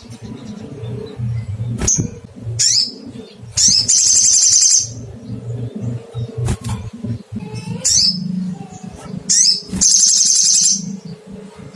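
Olive-backed sunbird calling: sharp, high "cuit" notes followed by a fast, high trill, twice over. A steady low hum runs underneath.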